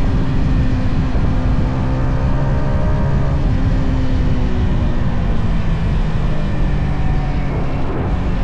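Stock exhaust of a Yamaha XSR 155's single-cylinder four-stroke engine under way. The engine note eases down about two seconds in and climbs again near the end.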